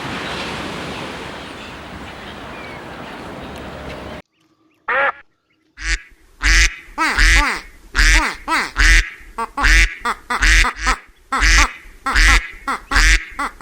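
A steady rushing noise that cuts off suddenly about four seconds in, then a duck quacking over and over, about two quacks a second.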